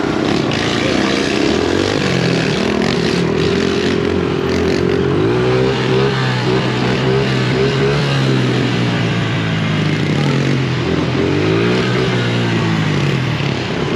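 Motorcycle engines revving, their pitch rising and falling again and again.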